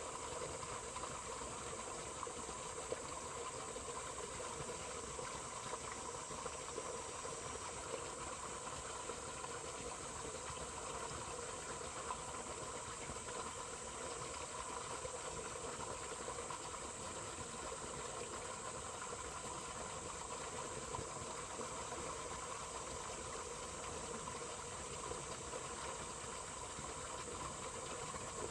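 Water flowing steadily in a small stream or waterway, a constant even rushing hiss.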